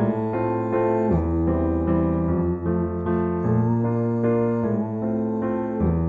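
Instrumental music on electric piano: a steady run of repeated chords over a slowly changing bass line, with no singing.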